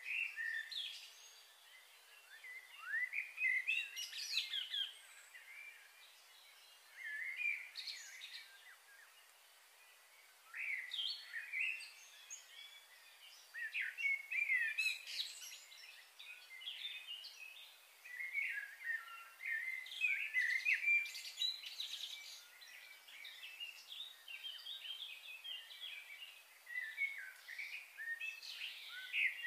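Birds chirping and singing in short clusters of quick high chirps and trills, with pauses of a second or two between them.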